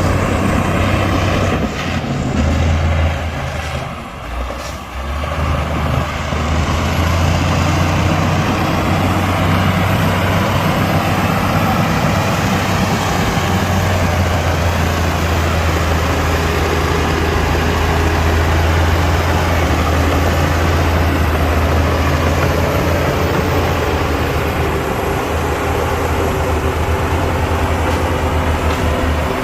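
Heavy diesel engine of earthmoving machinery running loud and steady, with a brief drop in level about four seconds in.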